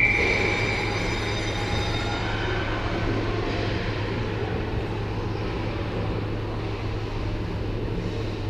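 Steady hockey-arena background noise: a constant low hum under a general wash of rink and crowd noise. A high whistle tone cuts off right at the start.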